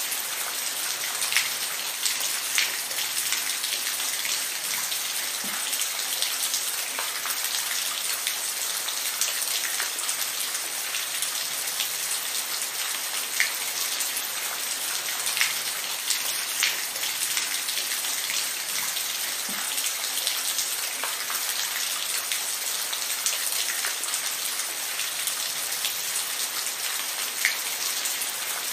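Steady rainfall, with a constant hiss and individual drops ticking sharply on a surface every second or two.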